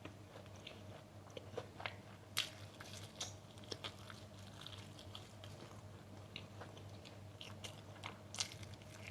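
Close-up eating sounds: crunchy food being bitten and chewed, with irregular sharp crunches, two of them louder than the rest.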